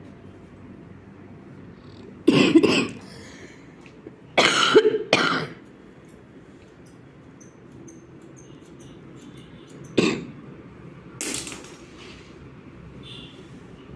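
A person with a cold coughing in short fits: a cough about two seconds in, two more around four to five seconds, then single coughs near ten and eleven seconds.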